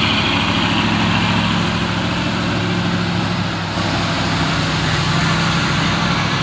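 Heavy truck's diesel engine running steadily under load, labouring up a steep climb.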